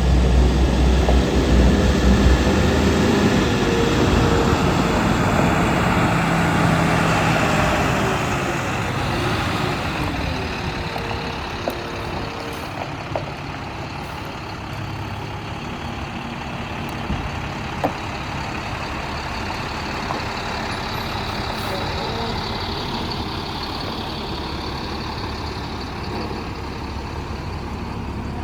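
2008 International 4700 dump truck's diesel engine running, louder for about the first eight seconds, then settling to a steady lower level with a few light clicks.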